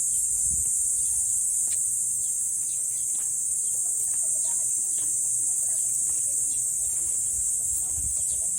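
Dense chorus of insects buzzing steadily, one high-pitched, unbroken drone.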